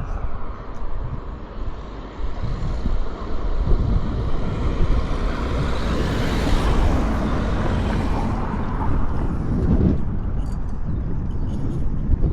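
A motor vehicle passing on the road: a rush of tyre and engine noise that swells to a peak about halfway through and then fades, over steady wind rumble on the microphone from riding.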